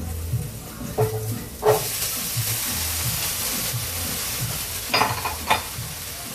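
Vegetables hitting a hot oiled pan on high heat and starting to sizzle. The sizzle starts suddenly a couple of seconds in and then runs steady, with a few clinks of a utensil against the pan.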